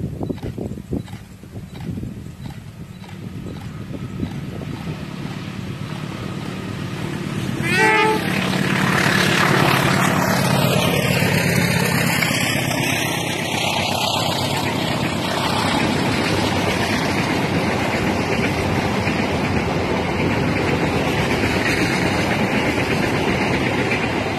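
Passenger train approaching and passing close on the rails, with a short horn blast about eight seconds in as the diesel locomotive arrives. After that comes the steady loud rolling rumble of the coaches' wheels on the track.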